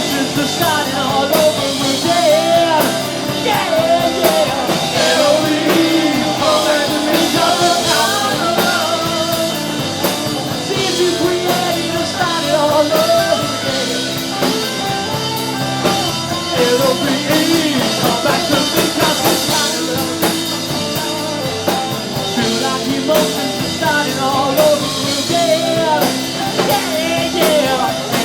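A live rock band playing a passage with no sung words: drum kit and electric guitar, with a pitched lead line bending up and down over the beat.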